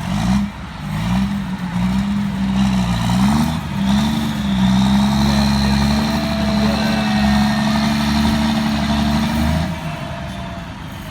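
Modified Fiat 1300 tractor's straight-piped diesel engine revving: it rises and falls for a few seconds, then holds steady at high revs for about six seconds before the revs drop near the end.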